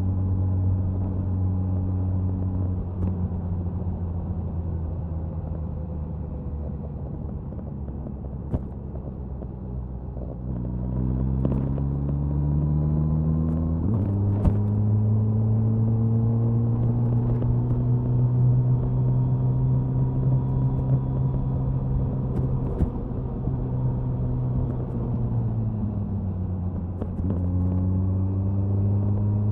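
Suzuki Hayabusa's inline-four engine and exhaust at speed on the highway. The engine holds steady revs for about ten seconds, then climbs for a few seconds. It drops sharply with an upshift about fourteen seconds in and holds steady again. Near the end the revs fall away, then rise once more.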